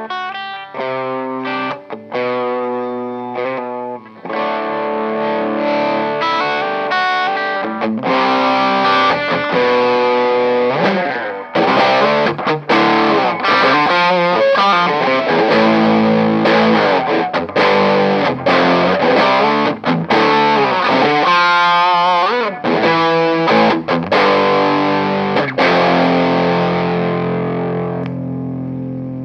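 1997 Korean-made Epiphone Les Paul Custom electric guitar played through a distorted amp with effects. It starts with separate picked notes, turns to denser, louder playing about eight seconds in, and ends on a held chord that rings out and fades.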